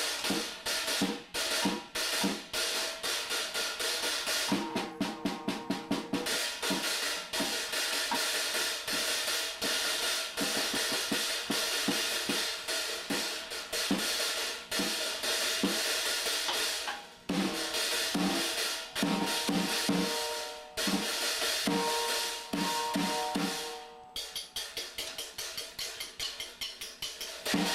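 Drum kit played fast and loosely: quick snare and bass-drum hits under a near-constant wash of cymbals. It breaks off briefly about two-thirds of the way through, and again near the end, before starting up again. Held pitched notes sound alongside the drums for a few seconds past the middle.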